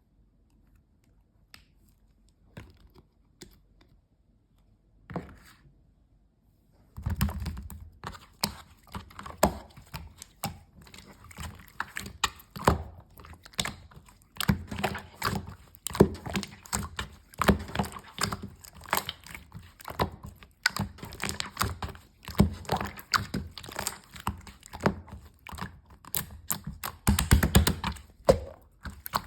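Green slime being worked by hand: dense, irregular sticky clicks and pops. Only a few faint clicks come before it starts in earnest about seven seconds in.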